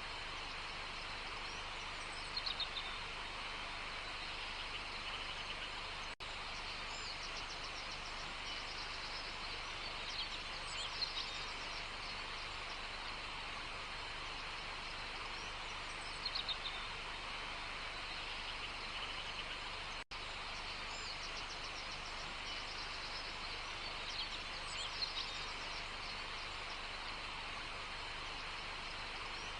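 Outdoor nature ambience: a steady, even hiss of background sound with short, high bird calls four times. The sound cuts out for an instant twice.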